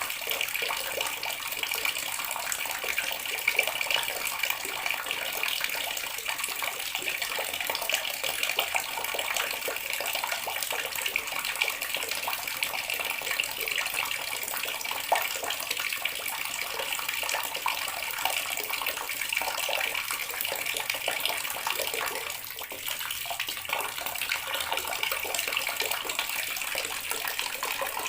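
Water running steadily from a tap and splashing into water below, with a brief slight dip in level about two thirds of the way through.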